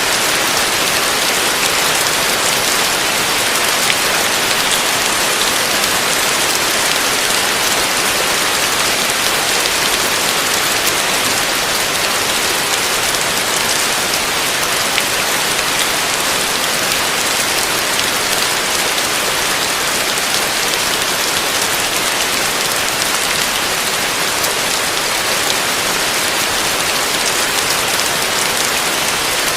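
Heavy rain falling steadily, an even hiss with faint scattered drop ticks and no thunder.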